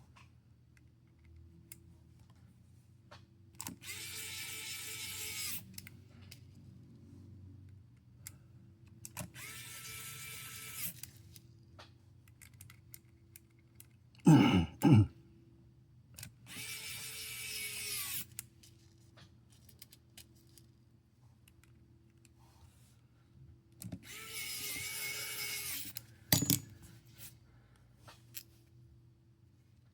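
Small electric screwdriver whirring in four short runs of about two seconds each, spaced several seconds apart, driving small screws. Two loud knocks in quick succession midway, and a sharp click near the end.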